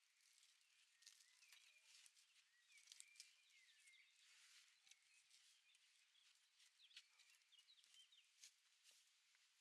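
Faint wild birdsong, short chirping calls coming and going, with scattered small clicks.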